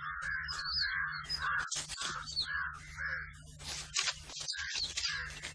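Birds cawing harshly and rapidly, two or three calls a second, with thin higher chirps and scattered clicks over a low steady hum.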